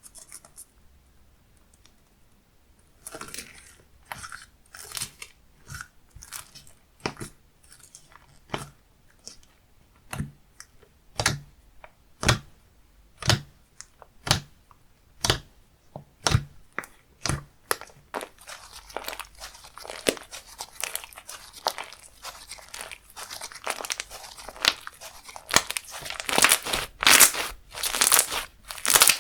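Slime being pressed and stretched by hand. Sharp pops and clicks come about once a second, then run into a denser crackling over the last third.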